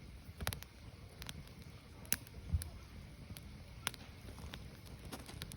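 Burning firewood crackling: sharp, scattered pops about every half second to second, the loudest about two seconds in, over a low, steady rumble.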